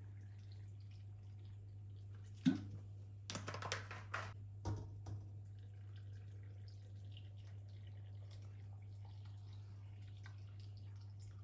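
A steady low hum, with a sharp knock about two and a half seconds in followed by a short run of clicks and knocks.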